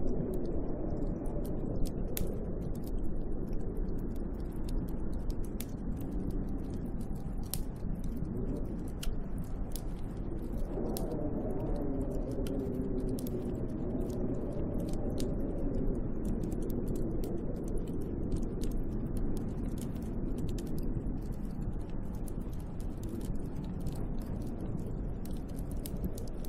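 Snowstorm wind blowing steadily, howling with a pitch that rises and falls in slow waves, over a constant light, irregular ticking.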